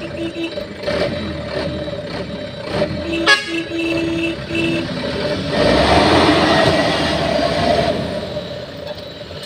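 A truck horn tooting several short blasts, with a louder rushing noise taking over from about halfway through for a couple of seconds.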